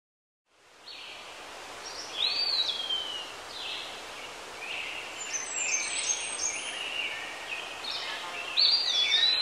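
Birds chirping and singing in short repeated calls and whistled glides over a steady background hiss, fading in just under a second in.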